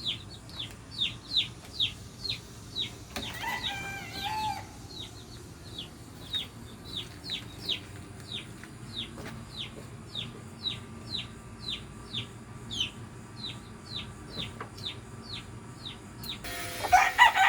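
Baby chicks peeping steadily, about two to three high, falling cheeps a second. Lower adult-chicken calls break in about three seconds in, and a louder one comes near the end.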